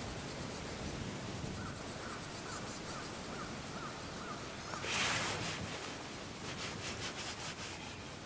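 Outdoor ambience with a bird calling a quick series of about seven short, repeated notes. About five seconds in comes a brief loud rustle, followed by a run of faint quick scrapes or ticks.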